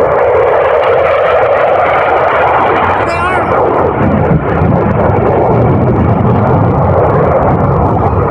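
Fighter jet engine noise from an aerobatic demonstration jet, loud and steady, turning deeper about halfway through as the jet moves.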